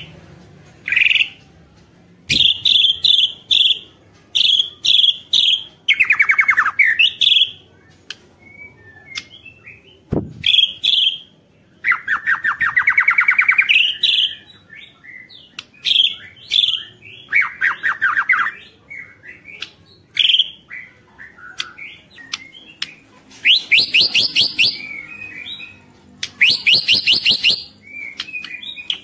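White-rumped shama (murai batu) singing vigorously: a continuous run of varied whistled phrases, broken several times by fast, rattling trills (the 'ketrekan') lasting a second or two each.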